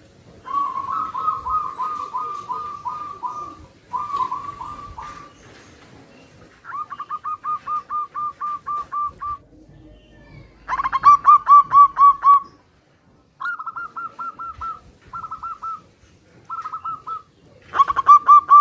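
Zebra doves (perkutut) cooing in a string of short phrases, each a quick run of staccato notes, the phrases following one another as if answering.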